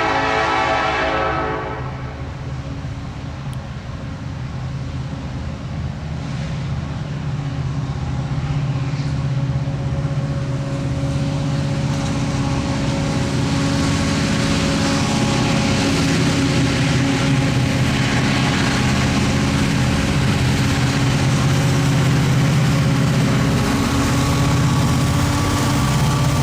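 Freight train's diesel locomotives: a horn blast ends about a second and a half in, then the engines' low drone grows steadily louder as the locomotives approach.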